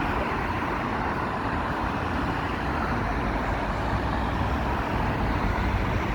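Steady road traffic noise, vehicles passing with a low rumble.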